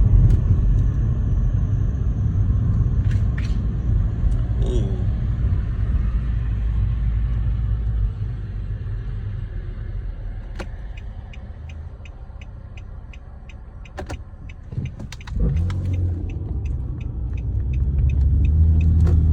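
Car underway with a strong low rumble from underneath, where remains of a run-over deer are caught and, by the driver's reckoning, something is dragging. The rumble eases off through the middle and builds again near the end, and a light ticking, about three a second, runs through the second half.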